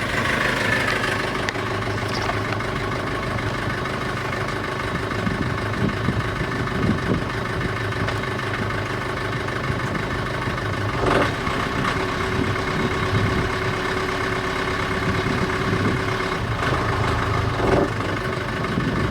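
Sailboat's engine idling steadily, with a couple of brief knocks about halfway through and near the end.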